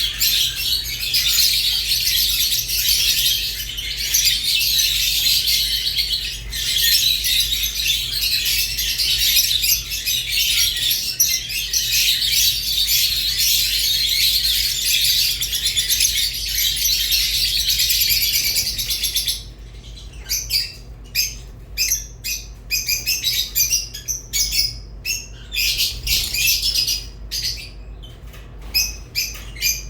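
Rosy-faced and Fischer's lovebirds chirping in a dense, unbroken high chatter. About two-thirds of the way through it thins to separate short chirps with gaps between them.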